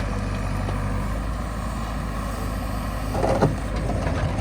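Heavy diesel vehicle engine running steadily at a low, even pitch. There is a brief sharper sound about three seconds in.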